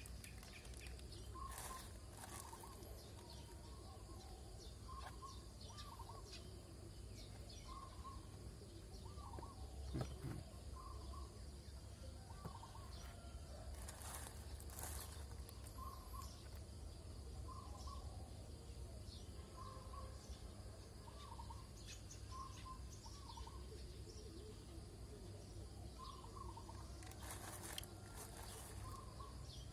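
Faint, short bird calls repeating every second or two, with a few brief crinkles of a plastic food bag being handled.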